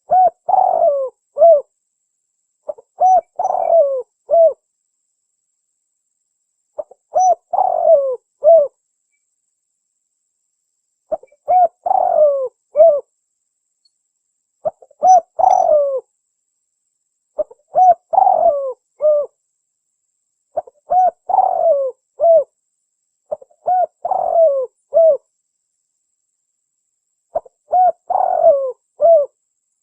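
Spotted dove cooing: a phrase of several coos, repeated about every three to four seconds, nine times over, with silence between phrases.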